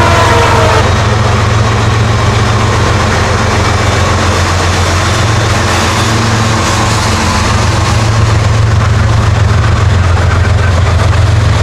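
LIRR M3 electric multiple-unit train, 12 cars, passing at speed with a loud, steady rumble of wheels and traction motors. The tail of its horn falls away in the first second.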